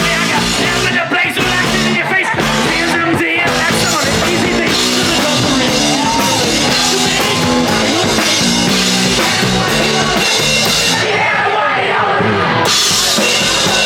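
Rock music with a drum kit, played loud and steady.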